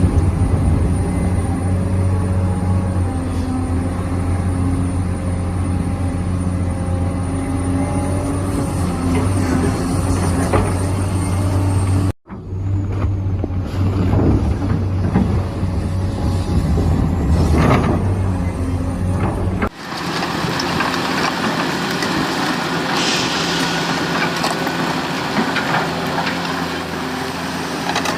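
Radio-controlled model Volvo excavator working: a steady motor and hydraulic-pump hum with a thin high whine. The sound breaks off abruptly about 12 seconds in and changes about 20 seconds in to a brighter, noisier running sound without the low hum.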